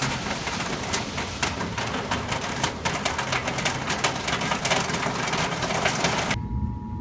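Storm wind noise with a dense, fast crackle running through it. It cuts off abruptly about six and a half seconds in, leaving a faint steady tone.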